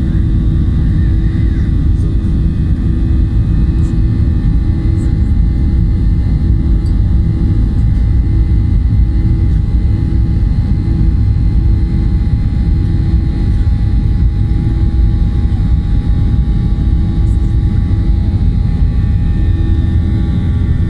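An airliner's jet engines running at takeoff power: a loud, steady low rumble with several steady humming tones above it, unchanging throughout.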